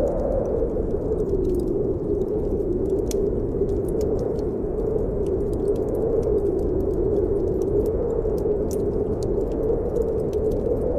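Blizzard wind blowing steadily with a low howl that wavers slightly in pitch, over scattered small crackles and pops of a wood fire burning in a fireplace.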